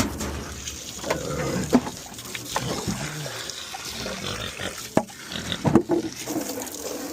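Pigs grunting in short low calls over running water, with a couple of sharp knocks about five and six seconds in.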